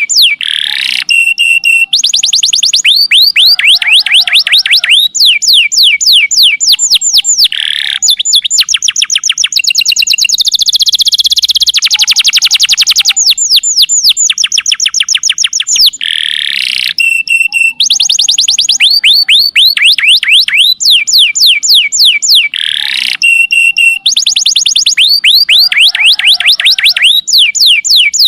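Domestic canary singing continuously: rapid trills of repeated falling notes, each phrase a different trill, with a few short held whistled notes between them.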